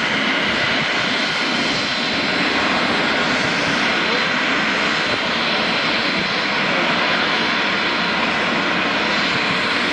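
Aircraft engine running loudly and steadily, a dense rushing noise with a thin high whine held at one pitch.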